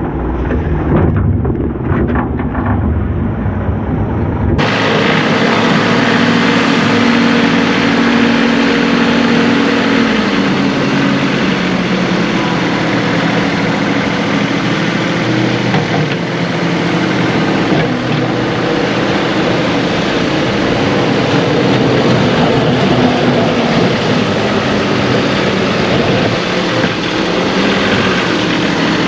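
John Deere 2038R compact tractor's three-cylinder diesel engine running steadily while working, its pitch lifting briefly and settling. About four and a half seconds in, the sound cuts to a brighter, closer-sounding take of the same running engine.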